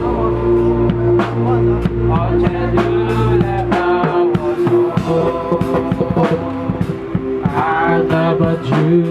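Live band playing a praise song, with voices singing the refrain between held instrumental notes.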